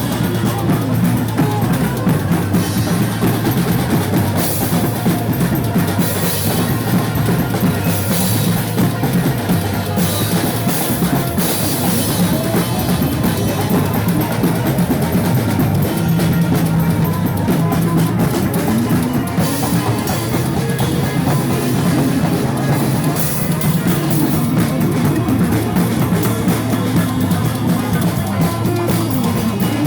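Band music driven by a full drum kit, with bass drum, snare and cymbals over bass, kicking in suddenly at full level and playing on steadily.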